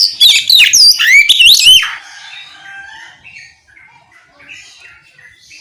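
Oriental magpie-robin singing a loud run of rapid, sweeping whistled notes for about two seconds, then softer chirps and calls.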